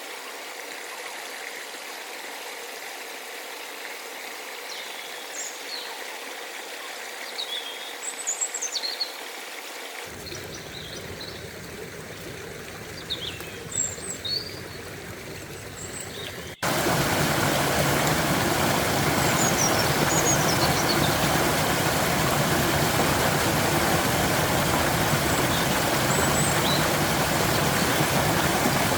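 A stream running, with small birds chirping now and then. Over halfway through the sound cuts suddenly to louder, fuller running water.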